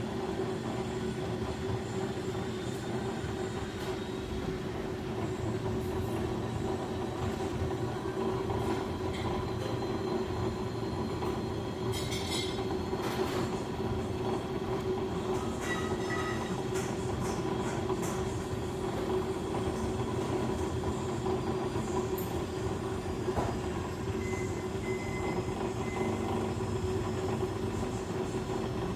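Beko WS832425S washing machine on its intermediate spin, the drum spinning steadily with the load balanced, giving a steady motor hum over a low rumble. A few faint clicks come about twelve seconds in.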